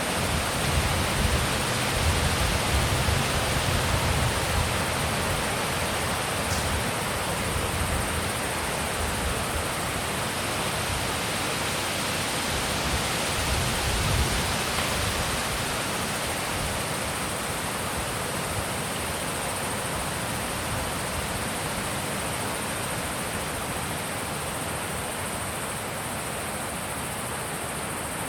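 Wind blowing in a steady rush, with gusts buffeting the microphone in a low rumble through the first half that die away, leaving the wind slightly softer near the end.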